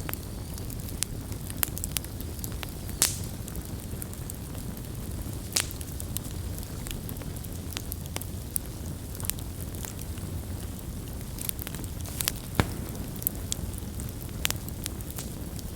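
Wood campfire burning with a steady low rumble and irregular sharp crackles and pops, a few of them louder, about 3, 5.5 and 12.5 seconds in.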